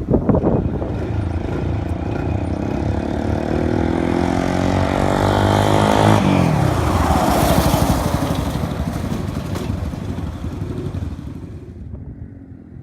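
An off-road vehicle's engine accelerating, its pitch climbing as it comes closer. It passes about six seconds in with a sudden drop in pitch, then fades away.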